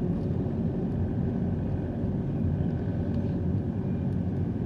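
Steady low rumble of a car being driven.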